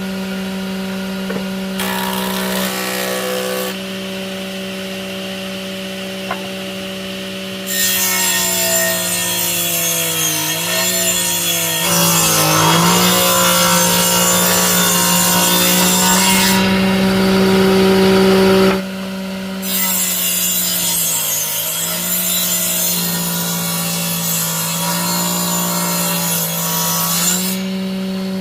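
Handheld power tool motor running steadily, making two long cuts: the first starts about a quarter of the way in and lasts about ten seconds, the second follows after a short pause. The motor's pitch dips each time it bears down.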